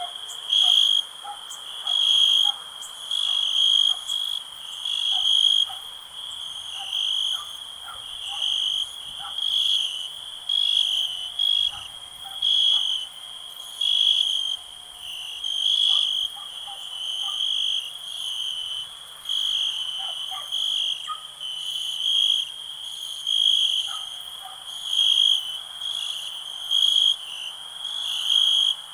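Night chorus of crickets: a loud chirping that swells about every one and a half to two seconds over a steady, very high insect trill. Scattered short frog calls sit underneath.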